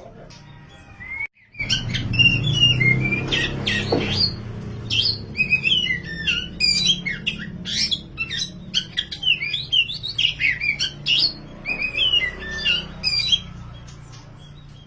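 Black oriental magpie-robin (kacer wulung) singing loudly and continuously: a fast run of varied, quickly bending whistled notes. It starts just after a brief cut about a second in and tails off near the end.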